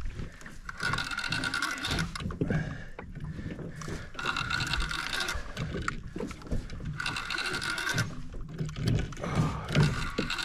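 Penn Slammer spinning reel being cranked in short runs of a second or so, with pauses between, a whirring gear sound, as a hooked fish is pumped up on the rod.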